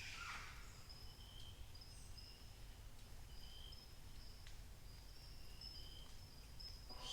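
Faint dawn forest chorus: many thin, high, short notes from distant animals over a low rumble. A louder harsh call fades out at the start, and another begins right at the end.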